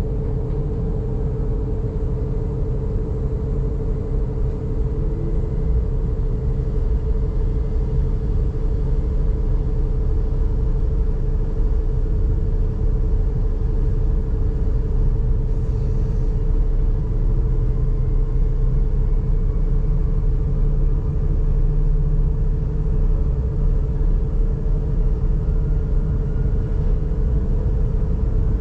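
Inside an electric S-Bahn train getting under way: a steady rumble of wheels on track with a constant hum. It grows a little louder over the first several seconds as the train picks up speed, and a faint rising whine comes in later.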